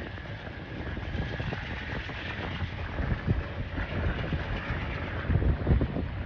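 Passing train rolling along the tracks, a steady rushing rumble with a faint steady whine, while wind buffets the microphone in low gusts that grow stronger near the end.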